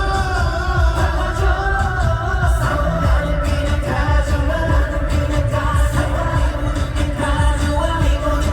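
Live K-pop performance through a concert sound system: male group vocals singing over a pop backing track with a heavy bass beat.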